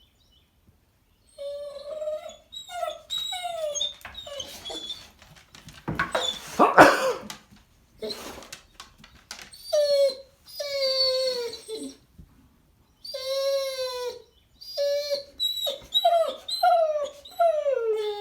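A dog whining and howling in a string of high cries, most falling in pitch, with short pauses between them and a louder, rougher cry about six seconds in.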